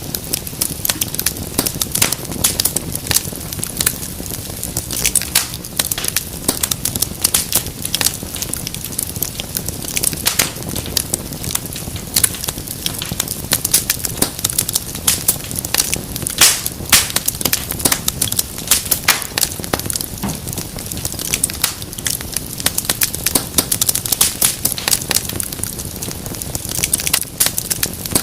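Fireplace fire crackling steadily, with dense, irregular sharp pops and snaps over a low, even rumble of flames.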